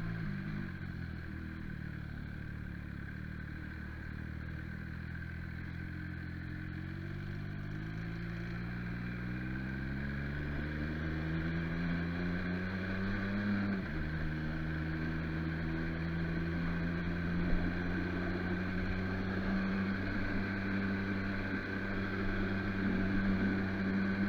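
MV Agusta Brutale motorcycle engine under way, its pitch rising gradually for about ten seconds. It drops sharply at an upshift partway through, then holds a steady cruise.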